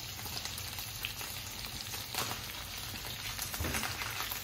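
Steady sizzle of frying with scattered crackles: sliced mushrooms cooking in melted butter in a non-stick pan, alongside chicken bites deep-frying in oil.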